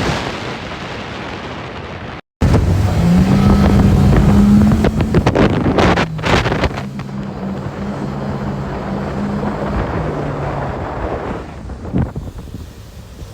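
Yamaha 115 V-MAX SHO four-stroke outboard running at high speed, driving a boat on its pad, with wind buffeting the microphone. After a brief cut about two seconds in, the engine note holds steady, drops a little about halfway through and fades near the end.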